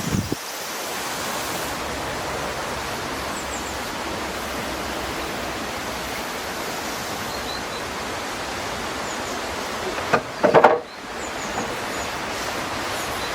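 A steady, even rushing noise, with a short louder handling knock about ten seconds in.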